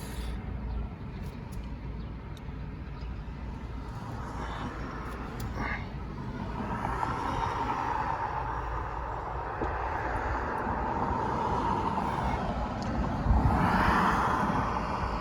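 Car on the road: a steady low rumble of engine and tyres, with road noise swelling in the second half and loudest near the end.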